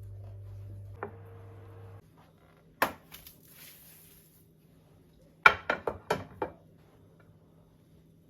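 Kitchenware being handled: a single sharp knock, then a quick run of five knocks and clinks. A low steady hum stops about two seconds in.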